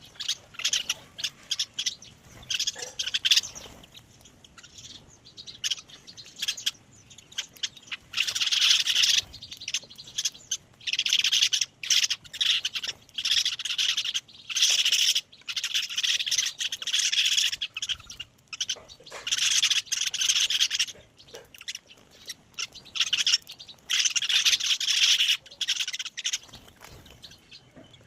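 Birds chirping in busy, high-pitched bursts a second or two long, with short pauses between them; the bursts grow louder and longer partway through.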